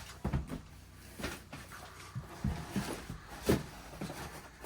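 Objects being handled and moved while boxes are unpacked: a few short knocks and thumps at irregular intervals, with light rustling between them.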